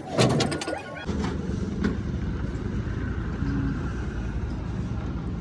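A few sharp knocks, then about a second in a steady low motor-vehicle rumble takes over.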